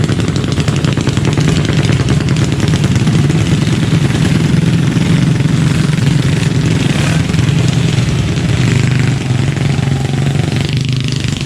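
Minibike engine running steadily, holding an even pitch with little change in throttle.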